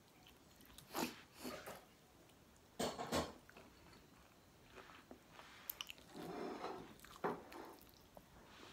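Close-up chewing and biting sounds of a person eating galunggong (round scad) and rice by hand, in short scattered bursts, the loudest about three seconds in.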